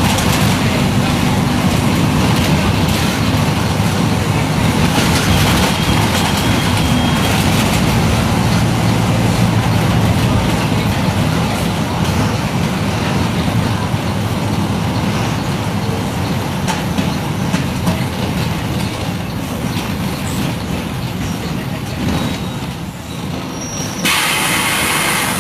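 Mercedes-Benz OF-1721 BlueTec 5 bus's four-cylinder diesel running on the move, a steady engine drone under body rattle and road rumble. Near the end comes a short burst of compressed-air hiss.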